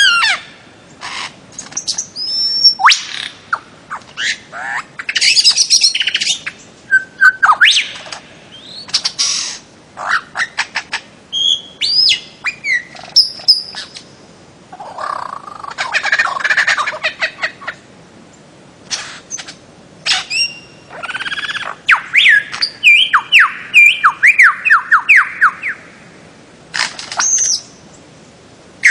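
Bird-of-paradise calling: a varied string of short whistled notes and slurred glides mixed with harsh, noisy squawks, and a rapid series of quick falling notes a little past the middle.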